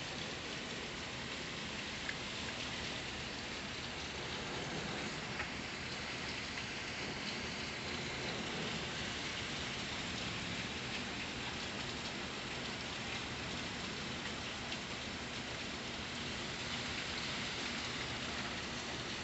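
Steady rain falling, a continuous even hiss with a few faint drop clicks.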